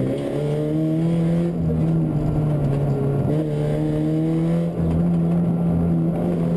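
Fiat Punto 1.8 rally car's four-cylinder engine heard from inside the car under hard driving, its note held fairly steady with slight rises and a brief dip about five seconds in.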